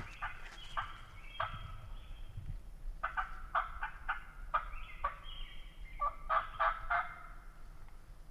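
Turkey yelping: several runs of quick, sharp notes, each note dropping in pitch, with the closest-packed run about six to seven seconds in.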